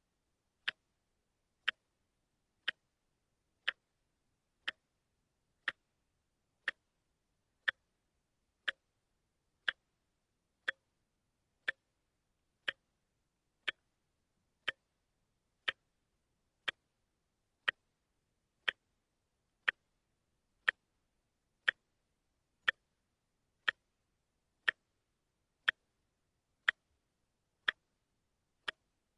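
A watch ticking, one sharp click a second, evenly spaced and steady, with silence between the ticks.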